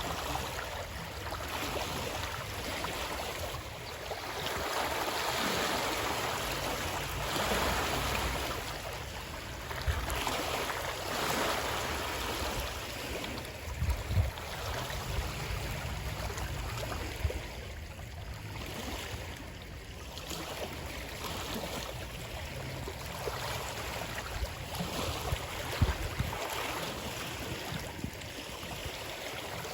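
Running water, a steady wash that swells and fades every few seconds, with a few short low thumps, the sharpest about halfway through and near the end.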